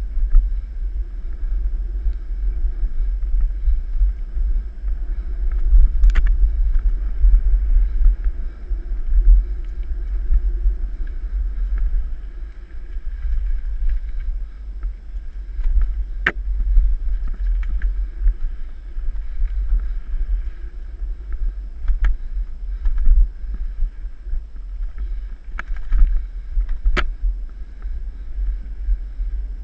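Mountain bike riding along a dirt trail, heard as a steady low rumble of wind and ride buffeting on the microphone, with a few sharp clicks and rattles from the bike over bumps.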